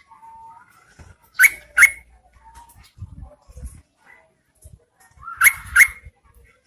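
Yellow-vented bulbul calling: two loud, short, sharp rising notes in quick succession, given twice about four seconds apart, with fainter short whistled notes in between.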